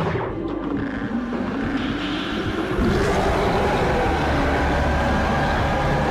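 Anime power-up sound effects from a transformation scene: a dense, continuous rumbling roar of energy that grows heavier and deeper about three seconds in.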